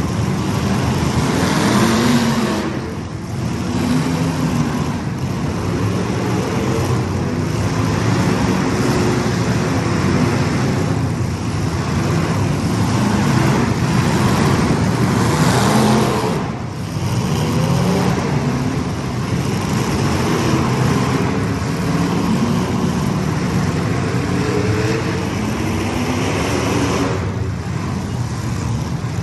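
Several racing engines running together, their pitch repeatedly rising and falling as the cars accelerate, lift off and pass around the track.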